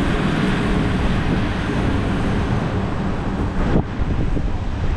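Train running along the track, a steady rumble of wheels and carriage heard from on board, with one sharp knock about four seconds in.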